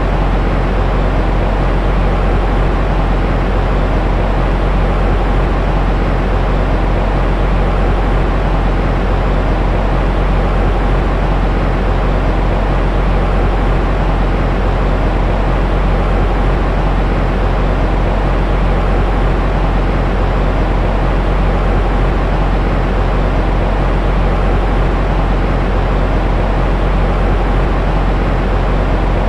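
Steady white noise for soothing a baby to sleep: an even, unchanging hiss with a strong low rumble and little treble.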